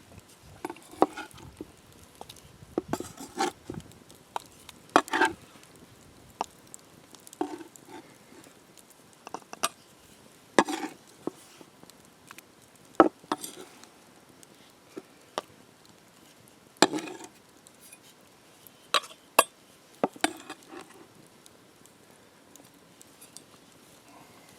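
Irregular clinks and knocks of utensils against cookware, about fifteen scattered strikes over a quiet background, some ringing briefly.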